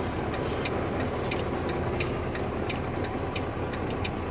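Diesel engine of a semi-truck tractor running steadily at low speed while the rig is backed up to a loading dock, with a light ticking about three times a second over it.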